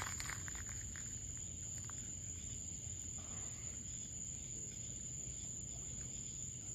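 Steady high-pitched insect trill, typical of crickets, over low background noise, with a few faint crackles in the first two seconds.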